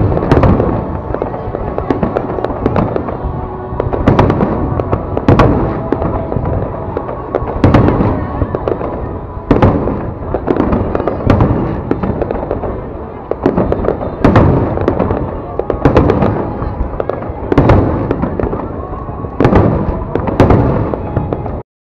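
Aerial fireworks display: loud bangs every second or two over a continuous crackle of bursting shells. The sound cuts out briefly near the end.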